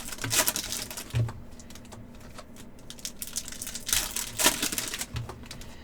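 Trading card packs and cards being handled: wrappers crinkling and tearing and cards rustling, in an irregular run of sharp clicks and rustles.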